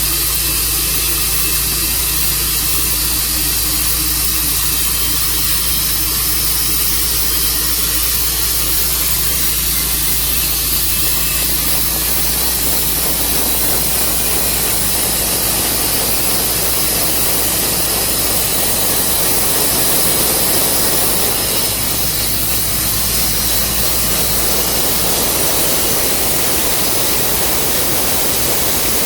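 Tru Cut sawmill running: a steady low engine hum under a loud, hissing saw noise. After about twelve seconds the noise turns rougher and fuller.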